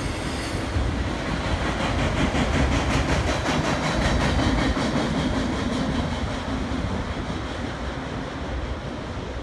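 Freight train of enclosed autorack cars rolling past, its wheels clicking rapidly and evenly over the rail joints under a steady rumble. The sound fades in the second half as the last cars pull away.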